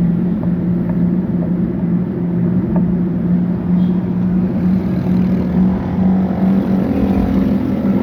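A motor vehicle engine running at a steady speed, its low hum holding one pitch, over road and wind noise.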